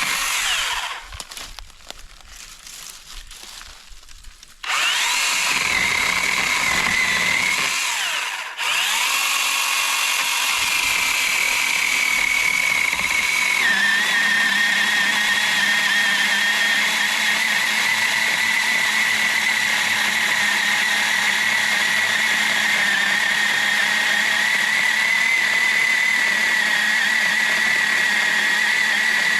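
Cordless battery-powered electric chainsaw with an aluminium gearbox, revved briefly, then from about five seconds in running steadily under load as it cuts through a large log, a high whine that steps down slightly in pitch about halfway through.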